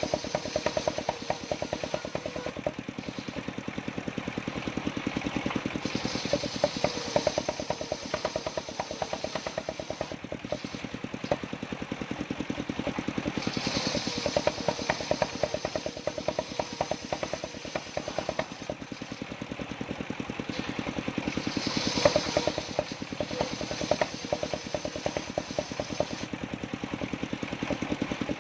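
Engine-driven mobile circular saw running with a rapid, steady pulsing beat, while the blade cuts jowar wood; a higher hiss from the cut swells and fades several times.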